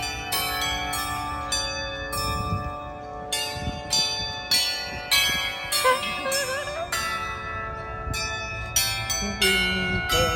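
A set of tuned bells ringing out a quick run of strikes, several a second, with notes at many different pitches. Each strike rings on and overlaps the next.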